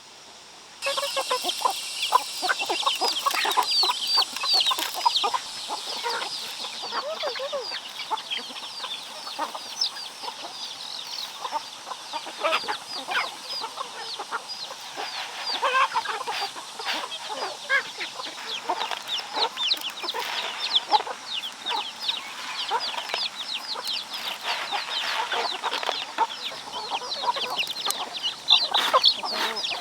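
A flock of chickens calling, with many short, high overlapping peeps and clucks. The calls start abruptly about a second in.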